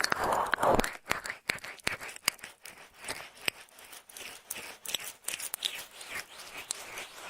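Ear pick scratching and scraping in ear-cleaning ASMR: a swishing rub for about the first second, then a run of small crackling clicks.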